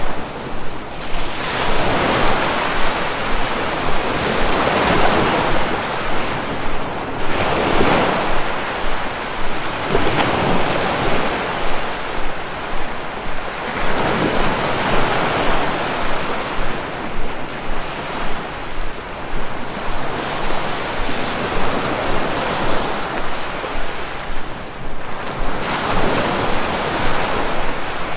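Sea waves breaking and washing ashore, a steady surf that swells and falls back every few seconds.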